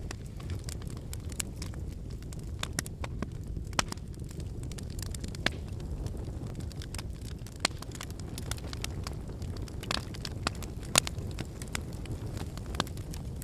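Wood bonfire burning: a steady low rumble of flame under irregular crackling and sharp pops from the firewood, with a few louder snaps, the loudest about three-quarters of the way through.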